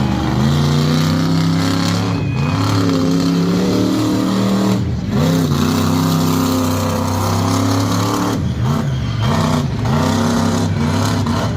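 A competition truck's engine revving loudly under throttle, its pitch rising and holding, with short lifts off the throttle about two and five seconds in and quick rev blips in the last few seconds.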